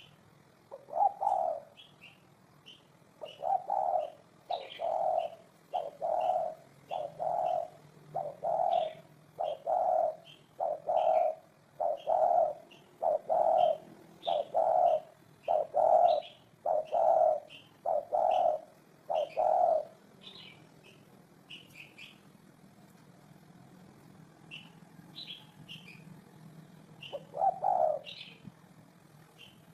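Spotted dove cooing: a long run of low, evenly spaced coos, about one a second, which stops about two-thirds of the way through and resumes with a single coo near the end. Small birds chirp high and rapidly throughout.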